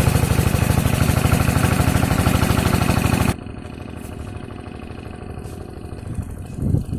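A diesel engine driving a water pump, running steadily with an even, rapid firing beat. About three seconds in, the sound drops suddenly to a quieter, duller chugging of the same engine, which keeps running.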